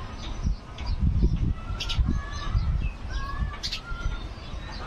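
Birds calling with short whistled notes and a few sharp high chirps, over low rumbling noise that swells about a second in.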